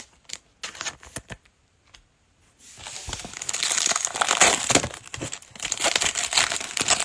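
A few light clicks of trading cards being handled, then from about three seconds in a 2021 Prizm Football pack's wrapper crinkling and tearing as it is ripped open and crumpled.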